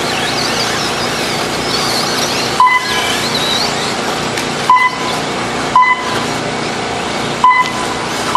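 Short electronic beeps from an RC race lap-timing system, sounding five times at uneven intervals. Each beep most likely marks a car crossing the timing loop during warm-up laps. They sit over steady outdoor track noise, with faint rising and falling whines in the first few seconds.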